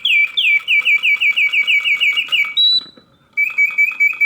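Vintage Reuge singing bird automaton's bellows-driven whistle producing birdsong. First comes a fast run of falling chirps, about five a second, then a brief higher held note. After a short pause, a run of quicker, shorter chirps begins near the end.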